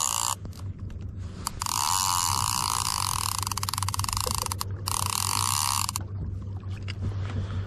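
Fishing reel whirring with rapid clicking in two spells, starting about a second and a half in and stopping about six seconds in, over a low steady hum.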